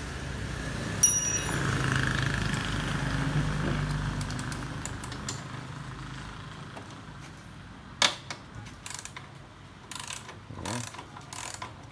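A passing vehicle's engine rumbles and fades away, with a sharp metal clank about a second in. Near the end come several separate metallic clicks and knocks from hand tools working on the motorbike's rear axle and chain adjuster while the loose chain is adjusted.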